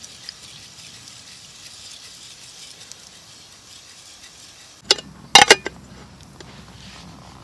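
Camp cookware being handled: a quick click about five seconds in, then a few sharp metallic clinks with a brief ring, over a faint steady sizzle.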